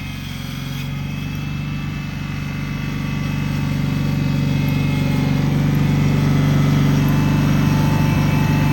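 Cub Cadet 782 garden tractor's engine running at a steady pitch, growing louder between about two and six seconds in.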